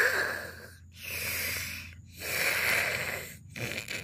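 Heavy breathing after an exertion: three long, breathy breaths, about one a second, with short silent gaps between them.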